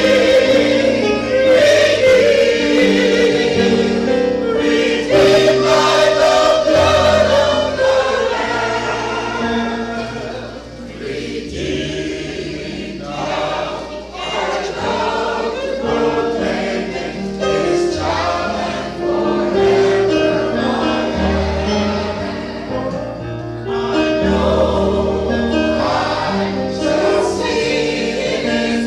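Choir singing a gospel song with accompaniment, with steady held bass notes beneath the voices; it grows softer for a few seconds around the middle.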